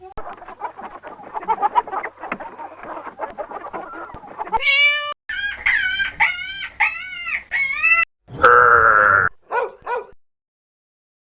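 Chickens clucking busily for about four seconds, then a string of short, high calls, one longer loud call and a few brief ones, before it cuts to silence near the end.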